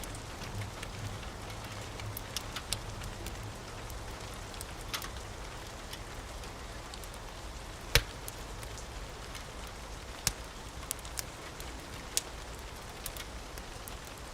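Wood fire in a fireplace crackling with scattered sharp pops, the loudest about eight seconds in, over a steady hiss of rain.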